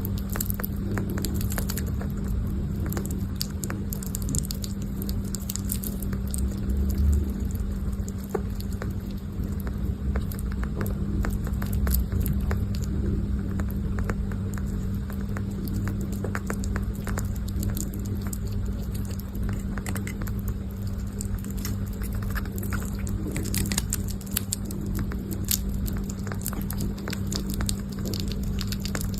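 A small pet chewing and nibbling food close to the microphone: a dense, irregular run of small clicks and crunches over a steady low hum.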